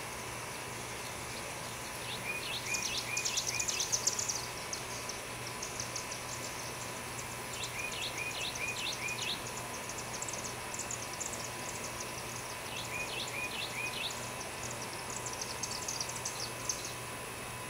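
A songbird singing a short phrase of several quick hooked notes, repeated about every five seconds, with thin high chatter between phrases, over a steady low hum.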